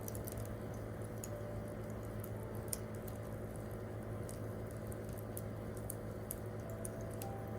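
Wood campfire crackling, with many irregular sharp pops and snaps over a steady low rumble, and faint soft piano notes underneath.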